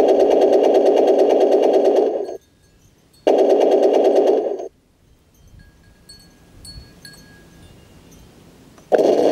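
RC Leopard tank giving three bursts of a steady, rapid rattling buzz that start and stop abruptly: about two seconds, then about a second and a half, then another starting near the end, with faint ticks in the gaps.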